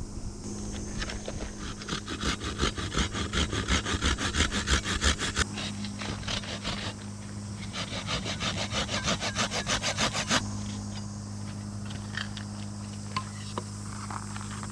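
Hand saw cutting through firewood with quick back-and-forth strokes in two runs, a short pause between them, stopping about ten seconds in; a few light wooden knocks follow.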